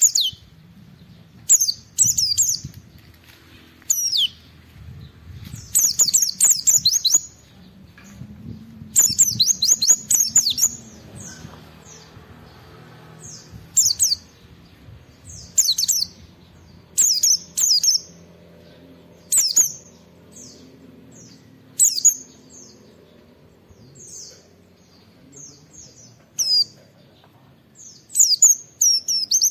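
A white-eye (pleci) in full song: short, high chirping phrases every second or two, some stretched into rapid runs of a second or more.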